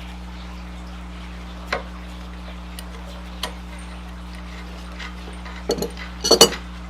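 Hand tools and small metal parts being handled during mini bike disassembly: a few isolated clicks, then a short cluster of knocks and clatter near the end, over a steady low electrical hum.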